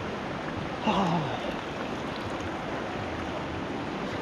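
Steady rush of flowing river water. About a second in, a short voice sound falling in pitch cuts across it.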